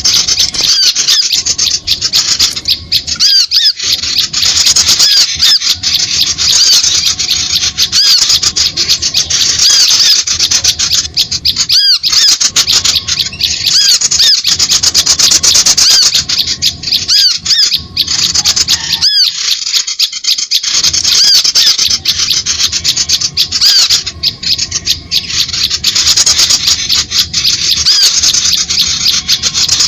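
Bird-lure recording of small songbirds: a dense, loud, nonstop chatter of rapid high-pitched chirps and squeaky calls, with a couple of brief lulls. It is the kind of lure call played to draw small birds in to bird lime.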